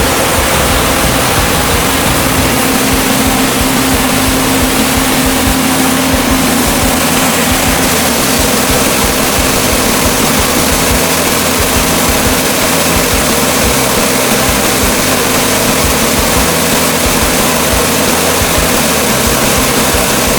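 Homemade band sawmill running, its Ford industrial engine driving a large band saw, giving a loud, steady mechanical noise. A steady hum in it fades about six or seven seconds in.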